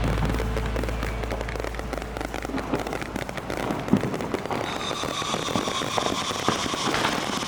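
Fireworks crackling: a dense run of fast pops and crackles, with a few sharper bangs about four seconds in.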